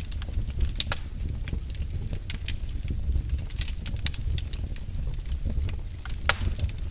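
Wood fire burning in a fireplace: a steady low rumble of the flames with irregular crackles and pops, a loud pop about a second in and another near the end.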